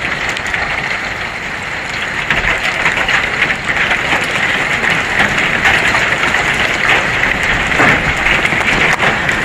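Hail and rain pelting down in strong wind: a dense, steady patter of many small hits.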